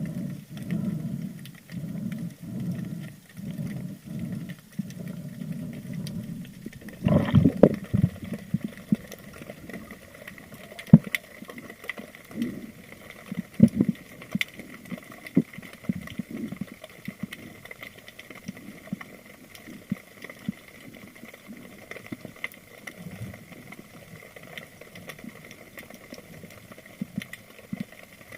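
Underwater sound on a spearfishing camera: a run of evenly spaced low swishing pulses, a louder rush about seven seconds in, then scattered sharp clicks and crackles over a faint steady hiss.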